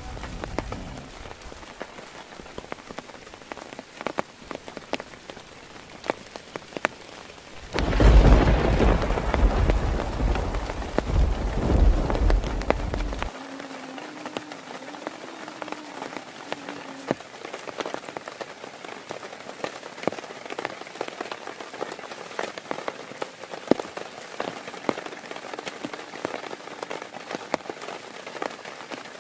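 Heavy rain falling steadily, with many separate drops hitting close by. About eight seconds in, a loud rumble of thunder rolls for about five seconds, then the rain goes on alone.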